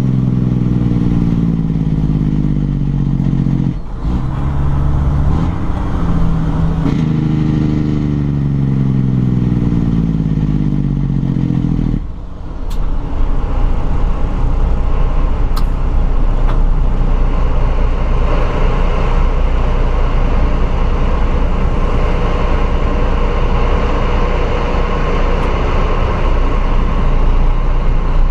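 Peterbilt truck's 12.7-litre Detroit diesel engine pulling through the gears of its 18-speed transmission. The engine pitch sweeps as it revs, with brief drops in sound at gear changes about four, seven and twelve seconds in. After that it runs at a steady pitch under road noise.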